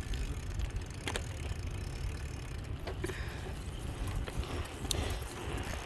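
Wind rumbling on the microphone during a bicycle ride, with a few faint clicks about one, three and five seconds in.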